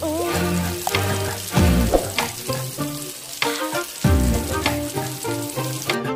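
Breaded chicken pieces deep-frying in hot oil in a wok, a steady crackling sizzle that stops near the end. Background music with a deep falling bass note about every two and a half seconds plays over it.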